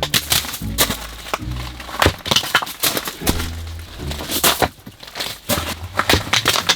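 Damp firewood being chopped into short pieces: a run of irregular sharp knocks and cracking splits of wood.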